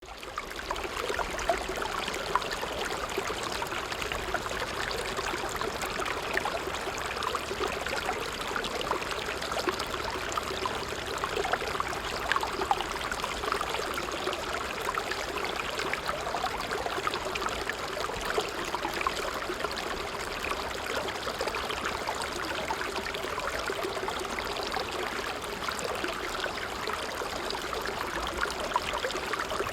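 A stream flowing, a steady rush of water with a fine, busy splashing texture. It fades in from silence at the very start.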